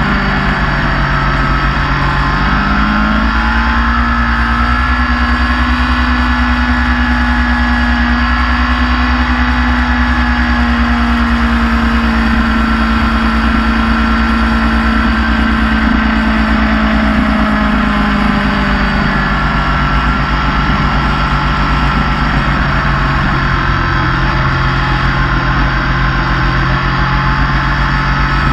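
Motorcycle engine running steadily under way; about three seconds in the revs rise and hold, then drop back about two-thirds of the way through.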